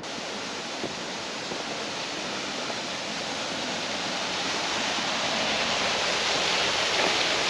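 Rushing water, a steady even roar that grows gradually louder.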